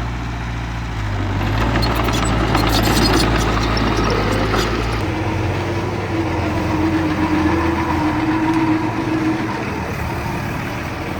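Heavy diesel engine of earthmoving equipment running steadily, with scattered clicks and clanks in the first half; the sound changes abruptly about five seconds in.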